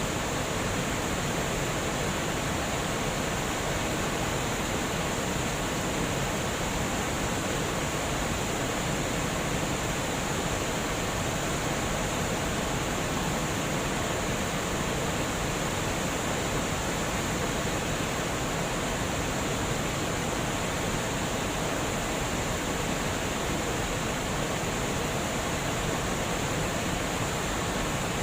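Water rushing steadily over a dam spillway, an even, unbroken roar of falling water.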